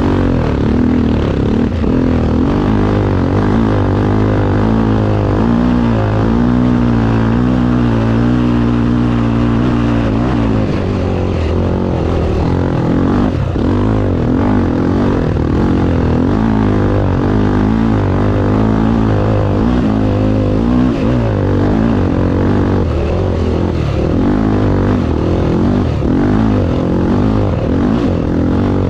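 Motorcycle engine running hard, its revs rising and falling continuously as the bike is ridden.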